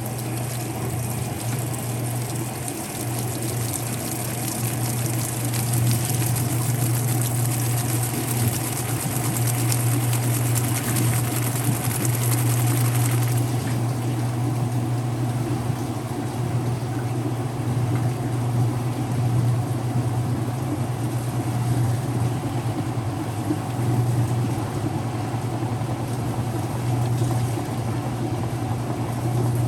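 An early-2000s Whirlpool direct drive washer running, with a steady motor hum under a hissing wash. The higher hiss drops away about halfway through while the hum carries on.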